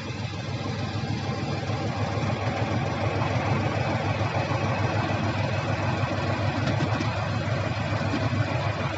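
Diesel engine of heavy earthmoving machinery (bulldozer or excavator) running steadily. It grows louder over the first couple of seconds, then holds a steady level.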